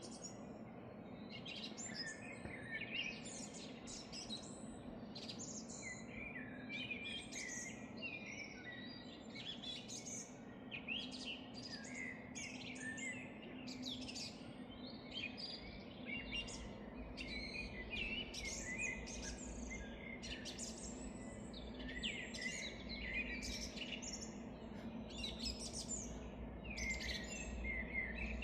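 Many birds singing and chirping at once in a forest, a dense chorus of short overlapping calls and trills. A faint steady low hum lies beneath, with a low rumble joining about halfway through.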